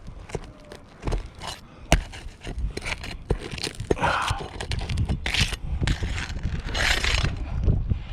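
Scraping and crunching with scattered sharp knocks and clicks as an old asphalt shingle is worked loose on a roof, with longer scrapes about four, five and a half and seven seconds in.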